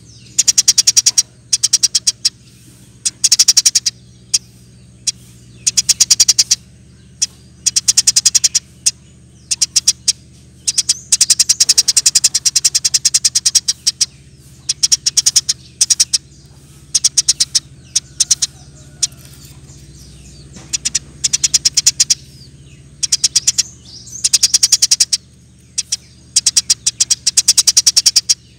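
Eurasian tree sparrow calling in rapid chattering bursts. Each burst is a fast string of shrill chirps lasting about a second, repeated every second or two, over a faint steady low hum.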